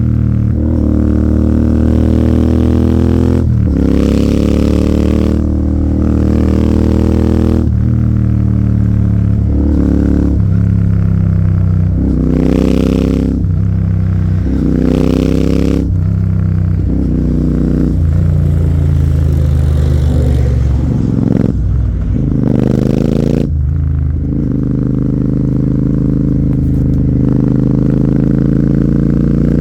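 Royal Enfield Continental GT 650's parallel-twin engine through an AEW aftermarket exhaust, accelerating hard through the gears and easing off again and again. The engine note climbs, breaks and falls about ten times, with short noisy bursts at several of the breaks.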